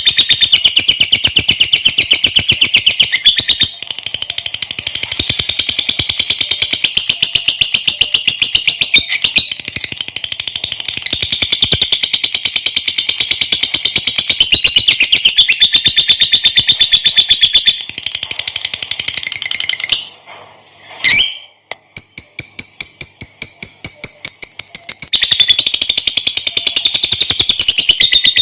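Lovebird in a long 'ngekek' song: a loud, rapid, high-pitched chattering trill. It breaks off briefly about twenty seconds in, comes back thinner and higher, then returns to the full chatter.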